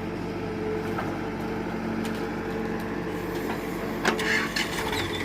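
Tractor engine running steadily, with a sharp knock and a short clatter about four seconds in.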